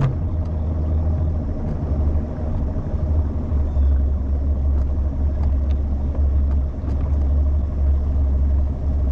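Bass boat's outboard motor running at low speed, a steady low rumble, as the boat is driven up onto the trailer bunks against a cross current.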